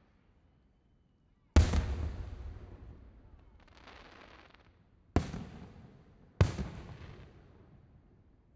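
Three aerial fireworks shells bursting with sharp bangs, each trailing off in a long echoing rumble. The first and loudest comes about a second and a half in, the other two close together near the end. A brief hiss comes between the first and second.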